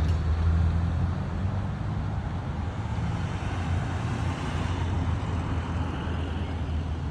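Motor-vehicle traffic: a steady low engine hum with road noise that swells briefly about four to five seconds in, as a vehicle passes.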